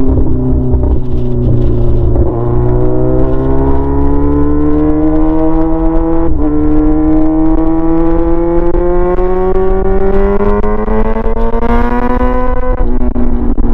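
Straight-piped Yamaha R6 inline-four running with no muffler while being ridden, its pitch climbing steadily as the revs build. There is a short dip at a gear change about six seconds in, then it climbs again and falls back near the end.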